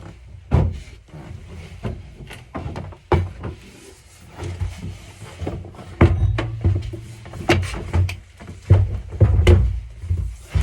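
Irregular knocks and hollow thuds of a plastic water tank being manoeuvred and pushed into place, heavier and more frequent from about halfway through.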